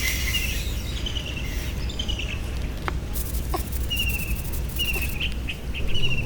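A bird chirping repeatedly in short, high phrases, some sliding downward, over a steady low outdoor rumble, with a couple of faint knocks in the middle.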